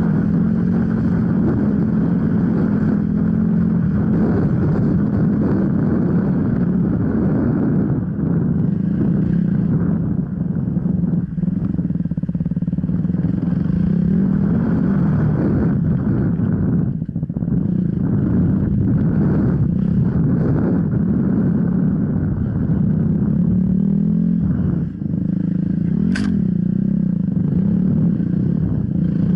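Enduro dirt bike engine running under load on an off-road trail, its revs wavering up and down with brief let-offs. Two sharp clicks near the end.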